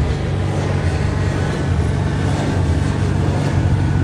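Engines running steadily, a low even rumble that holds without revving up or down.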